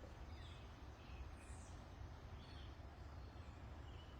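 Faint, scattered high chirps of distant birds over a low, steady outdoor rumble.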